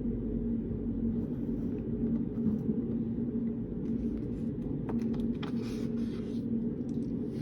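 Reading-room background noise: a steady low hum with one constant pitch in it, with a few soft clicks and a short rustle about five seconds in.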